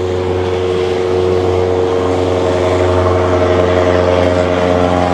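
Motor engine running steadily with a low drone, growing slowly louder, its pitch shifting slightly partway through.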